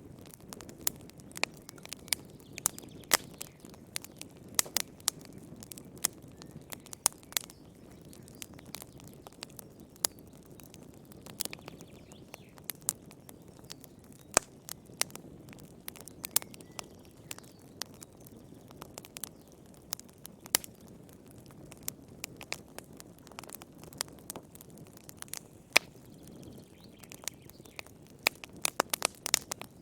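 Wood fire burning in a fireplace: a soft low rumble of flames under irregular sharp crackles and pops from the burning logs, with a quick flurry of pops near the end.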